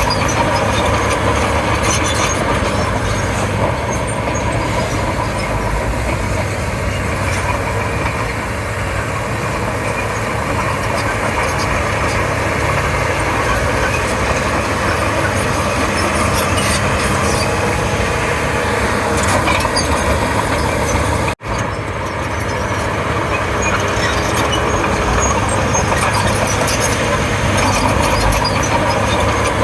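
Komatsu D31P crawler bulldozer's diesel engine running steadily under working load, with scattered faint metallic clicks. The sound breaks off for an instant about two-thirds of the way through.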